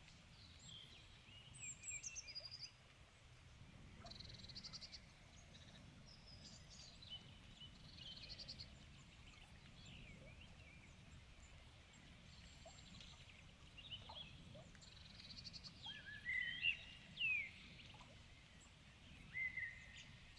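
Several birds singing in evening chorus: scattered chirps, whistled notes and short buzzy trills from more than one bird, with a few louder calls near the end, over a faint low rumble of background noise.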